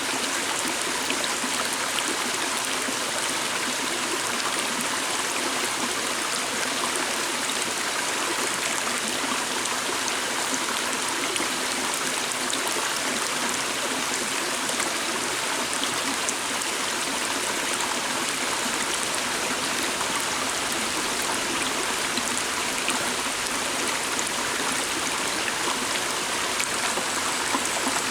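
Forest stream flowing: a steady, even rush and babble of water with no change in level.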